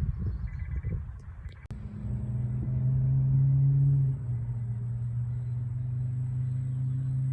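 A car engine turning over unevenly for about a second and a half, then catching with a click and running steadily; it idles fast and louder for a couple of seconds, then settles to a lower idle, as on a cold start of a car with a weak battery.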